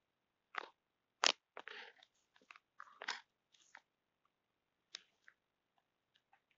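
A house cat chattering at a fly: short, irregular clicks and chirps with brief gaps between them, the loudest about a second in.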